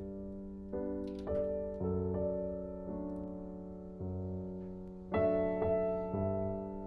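Soft background piano music: slow chords, each struck and left to ring and fade.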